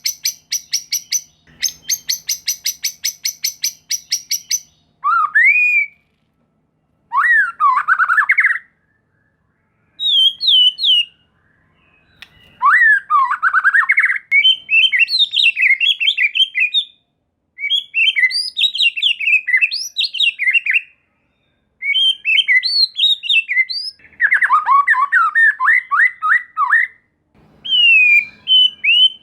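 White-rumped shama (murai batu) singing. It opens with a fast run of harsh repeated notes, about five a second, then moves to a series of varied whistled phrases with rising and falling glides, broken by short pauses.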